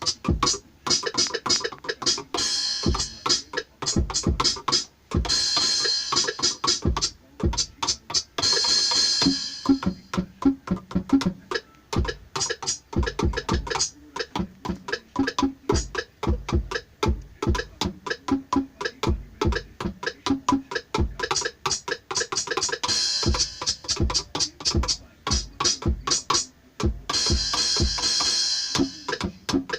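Roland Octapad electronic percussion pad played in a quick run of drum hits. Stretches of bright cymbal wash come in and out.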